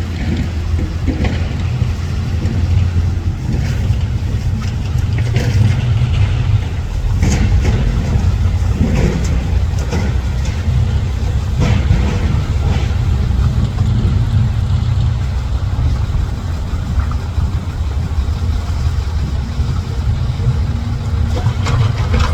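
Heavy diesel earthmoving machinery running steadily with a deep engine drone, with a scattering of sharp knocks and clanks over it.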